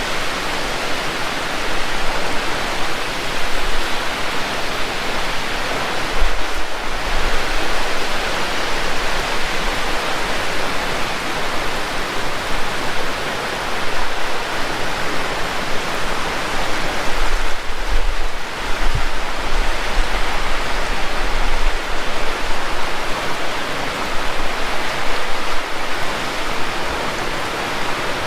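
Heavy rain pouring down in a steady, dense hiss. Two stretches of low rumble rise under it, about six seconds in and again from about seventeen to twenty seconds.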